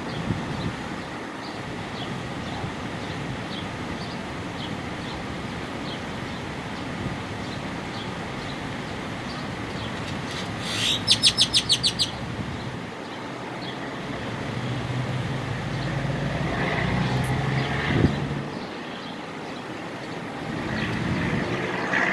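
A bird calling in a rapid, loud series of about eight sharp notes about halfway through, with faint chirps earlier, over a steady background rumble that swells near the end.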